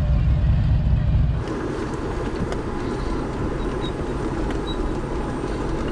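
Deep rumble of motorcycle engines, which cuts off abruptly about a second and a half in to a lighter, steady vehicle din.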